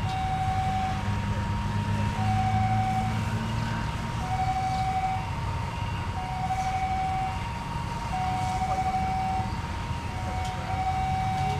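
Hi-lo two-tone siren, its two notes taking turns about once a second, over a steady low vehicle engine rumble.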